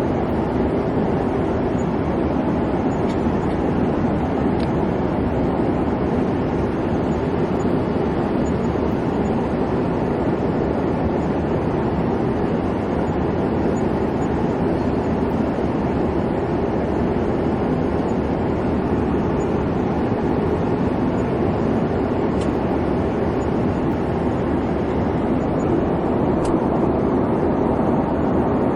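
Airliner cabin noise in flight: a steady, even rumble of engine and airflow, heaviest in the low and low-middle range, with no changes.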